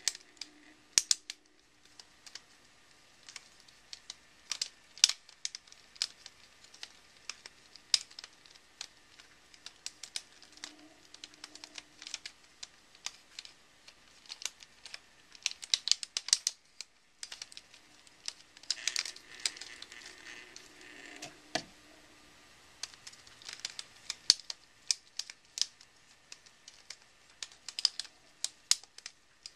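Rubik's Snake's plastic wedge segments being twisted, giving many irregular sharp clicks and rattles, with a brief pause about halfway through.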